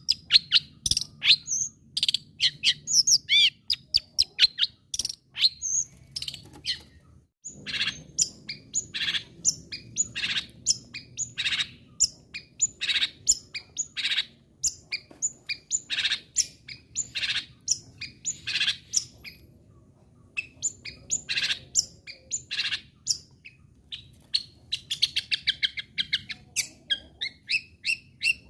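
Long-tailed shrike (cendet) singing hard: a long string of short, sharp, high notes in quick succession, breaking into a fast chattering run near the end.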